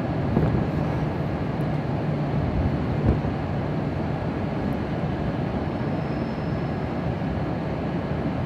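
Steady low hum and rumble from a stationary E6 series Shinkansen train at the platform, with station ambience around it and a short knock about three seconds in.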